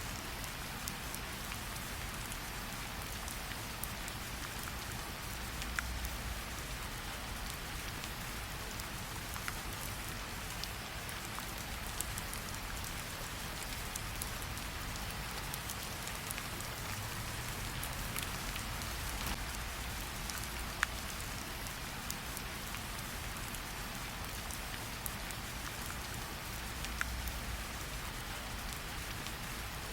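Steady rain falling, with scattered sharp crackles and occasional louder pops from a campfire.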